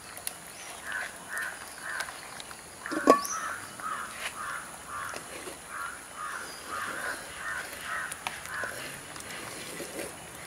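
A bird calling over and over in a steady series of short harsh calls, about three a second, stopping well before the end. A single sharp knock about three seconds in is the loudest sound.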